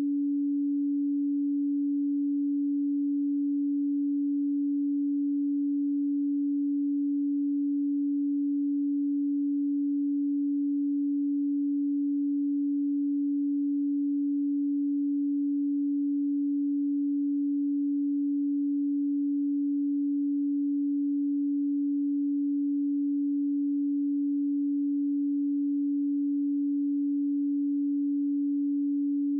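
A pure 285 Hz sine tone, held steady and unchanging.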